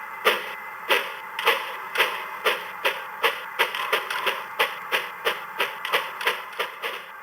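Train wheels clicking rhythmically over rail joints on an HO scale model railroad. The clicks come a little faster as the train gathers speed.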